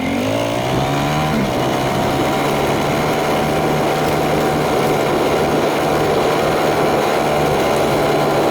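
Dirt bike engine picking up revs as it pulls away, then running at a steady speed under way, heard from a camera mounted on the bike.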